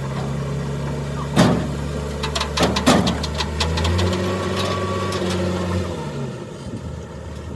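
An engine running steadily, with several sharp knocks in the middle; its note rises slightly about four seconds in and fades out about six seconds in.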